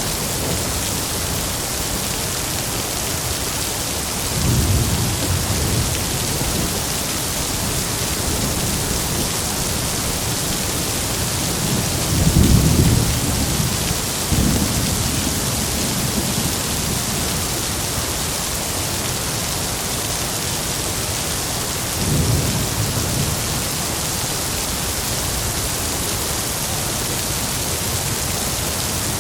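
Heavy rain falling in a steady hiss, with rolls of thunder rumbling low three times: about four seconds in, the loudest near the middle, and a shorter one later.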